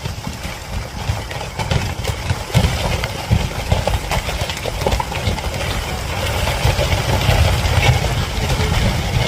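A heavy vehicle engine running steadily with a low rumble, growing a little louder toward the end, with scattered clicks and rattles over it.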